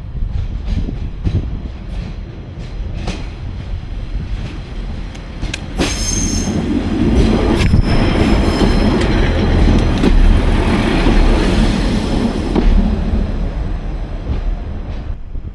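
Diesel train running along the track with a steady low engine rumble, swelling as it nears; from about six seconds in, high-pitched wheel squeal sounds for several seconds, then the sound fades.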